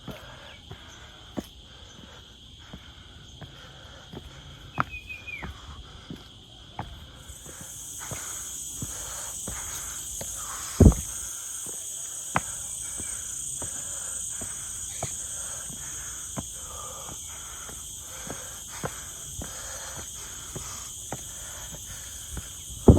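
Insects in forest droning steadily at a high pitch. A second, louder and higher insect buzz sets in about seven seconds in and holds. Irregular short clicks sound throughout, with one sharp thump about eleven seconds in.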